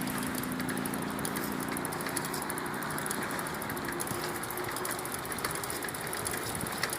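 Steady wind buffeting the microphone along with rolling noise from a bicycle being ridden.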